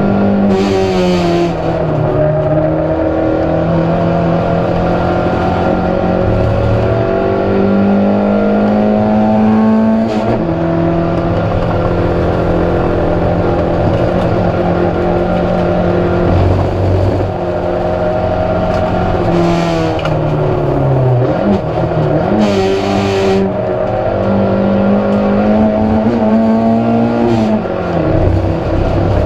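Proton Saga race car's four-cylinder engine running hard under race load, its pitch climbing through the revs and dropping at gear changes and braking several times.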